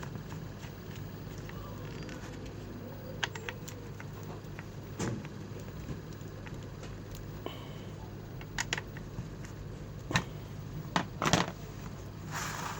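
Scattered clicks and knocks from the plastic parts of an electric hot air gun being handled during repair, about eight in all, over a steady low hum, with a short rustle near the end.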